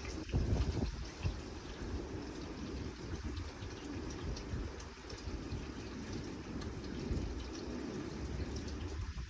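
Steady rain falling, with water dripping and trickling.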